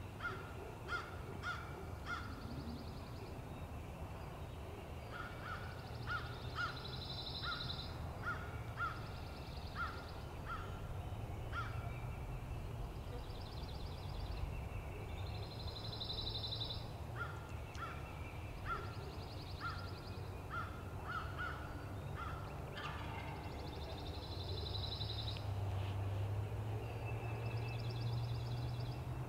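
Wild birds calling: runs of short, evenly repeated calls at about two a second, broken by pauses, and a songbird's buzzy trill that comes back roughly every nine seconds, over a steady low hum.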